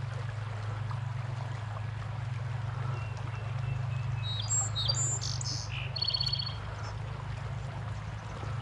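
A songbird calling outdoors: a few quick high chirps about four seconds in, then a short rapid trill, over a steady low hum.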